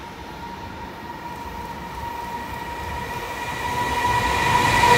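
JR Freight EF210 electric locomotive hauling a container freight train as it approaches, growing steadily louder. A steady whine strengthens as it nears.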